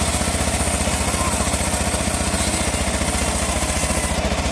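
Engine powering a homemade bandsaw sawmill, running steadily with an even fast pulsing beat.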